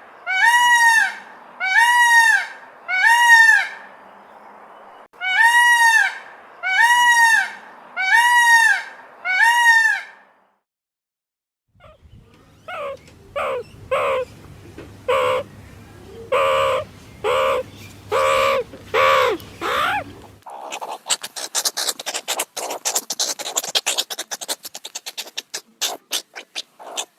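Animal calls in three different runs: about seven loud, arched calls, each rising and falling in pitch and spaced about a second apart, with a short pause partway; then, after a brief gap, a series of shorter calls about one to two a second; then a fast rattle of clicks near the end.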